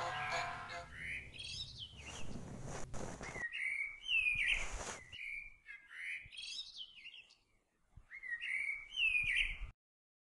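Birds chirping in short, repeated phrases of quick rising and falling notes, with brief gaps between the groups; the birdsong cuts off suddenly near the end.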